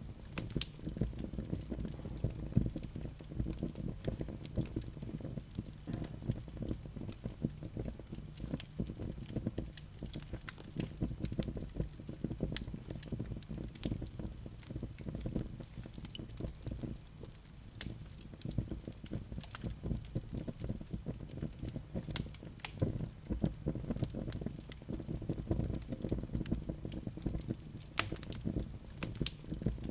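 Wood fire in a fireplace crackling, with frequent irregular sharp pops and snaps over a low, steady rumble of flames.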